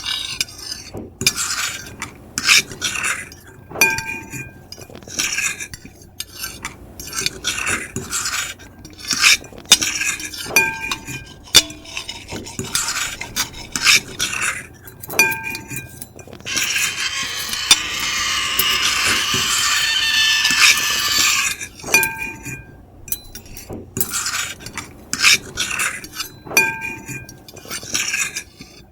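Metal fork and knife scratching and scraping across a plate in repeated short strokes, some ending in a brief high ringing squeak. Near the middle, one continuous scrape lasts about five seconds.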